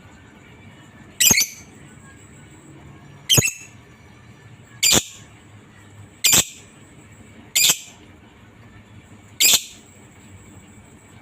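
Lovebird giving six short, shrill calls, each a fraction of a second long and one to two seconds apart.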